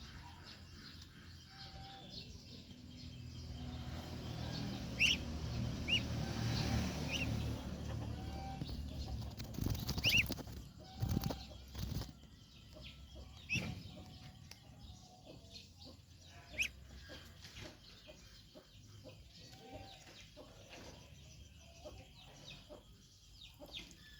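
Ducklings peeping now and then in short high calls, over rustling and wing flapping that swells and peaks about ten seconds in, then dies down.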